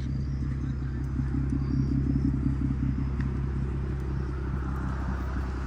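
Car engine idling steadily, a low even running sound.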